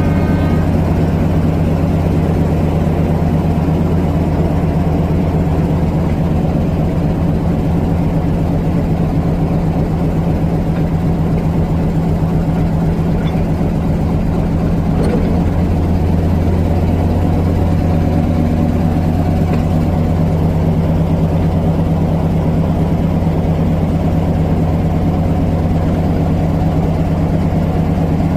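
Diesel locomotive engine idling steadily, with a constant low, even hum.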